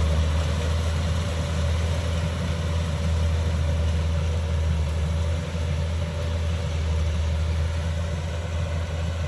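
Kubota DC-105X combine harvester's diesel engine running steadily, a deep hum with a thin higher tone held above it.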